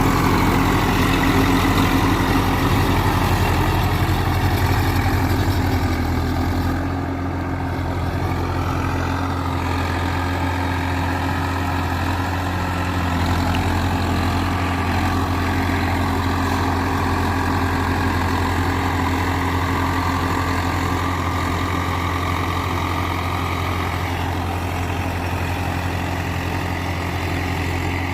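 Swaraj 744 FE tractor's three-cylinder diesel engine running steadily, a little quieter from about seven seconds in.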